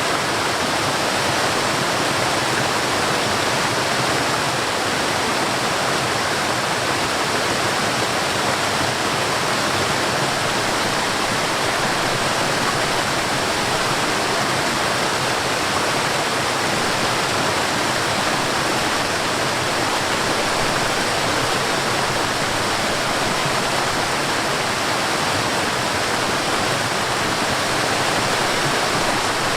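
Water rushing in a mountain stream with waterfalls: a steady, unchanging rush of falling and flowing water.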